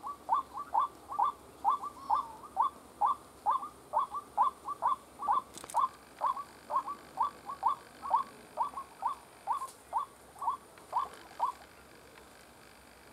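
White-breasted waterhen calling: a quick, steady run of short, repeated notes, about two to three a second, that stops near the end.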